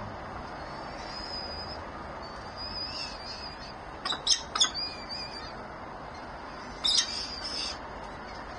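Birds calling: thin, high whistled calls early on, then two sharp loud calls about four seconds in and another burst of high calls near the end, over a steady background hiss.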